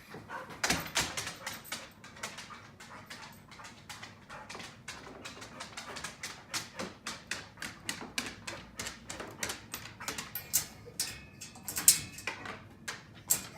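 A dog moving about, making a fast, irregular run of clicks and scuffles, several a second, with a few louder ones near the end.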